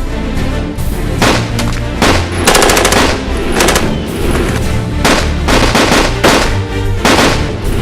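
Bursts of rapid automatic gunfire, about eight short volleys with one longer rattling burst a few seconds in, over background music.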